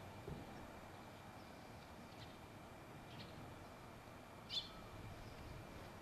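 Faint outdoor background with a few scattered bird chirps, the clearest about four and a half seconds in.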